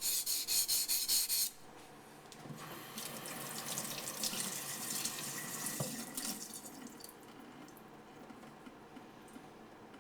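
Quick back-and-forth strokes of a yanagi blade on a waterstone, about five a second, stop about a second and a half in. Then water runs for about four seconds, quieter, and dies away.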